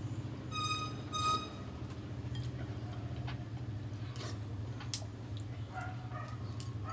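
Short, high-pitched animal whines, a few near the start and more near the end, over a steady low hum, with one sharp clink about five seconds in.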